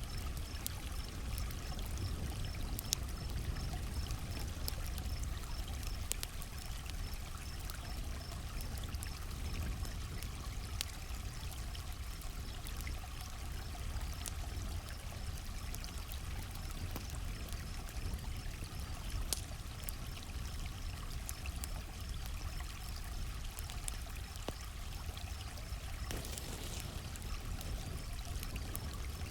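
Campfire crackling with scattered sharp pops over the steady rush of flowing creek water, with crickets chirping in a fast, even, high pulse.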